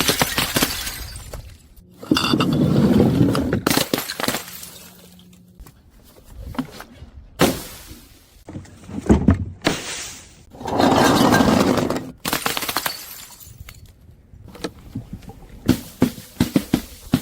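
Glass bottles being crushed and shattering in a series of separate crunching bursts with glass clinking, each lasting up to about a second and a half with short pauses between; a run of sharp crackles comes near the end.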